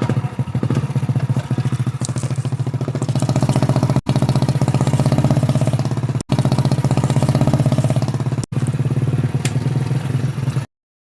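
Hero Splendor's single-cylinder four-stroke engine running steadily through a modified silencer, a fast pulsing exhaust note. It breaks off briefly three times and then stops suddenly near the end.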